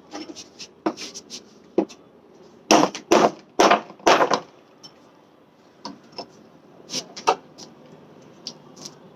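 Thick wooden plank being struck hard in an attempt to break it into firewood: scattered lighter knocks, with four loud heavy blows in quick succession about three to four seconds in.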